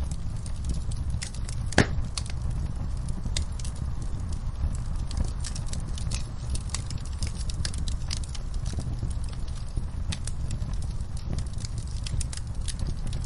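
Fireplace fire crackling, with irregular sharp pops over a steady low rumble of the flames; one louder pop comes about two seconds in.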